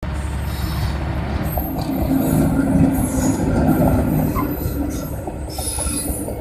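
Simanchal Express passenger train running past at close range: a steady rumble of the coaches on the rails, with high wheel squeal coming and going.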